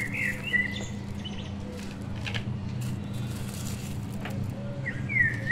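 A small bird chirping, a short call right at the start and another near the end, over a steady low hum. Faint clicks and rustles of dry straw being picked up and dropped onto plastic plates.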